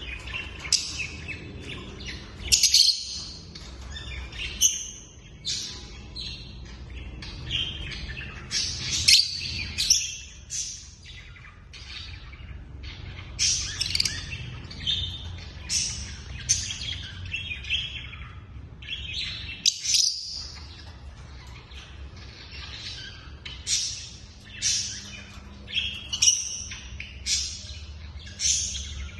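African lovebirds chirping, with many short, sharp, high-pitched calls in quick irregular runs, over a low steady background hum.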